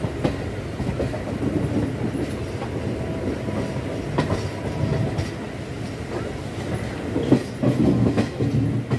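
Passenger train coaches rolling along the track, heard from on board, with a steady rumbling clickety-clack of wheels over the rails. A few sharper clanks stand out, one near the middle and one about two-thirds through.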